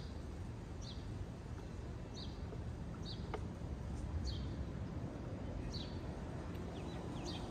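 Short high chirps of a small bird, repeated every second or so at uneven intervals, over a low steady rumble.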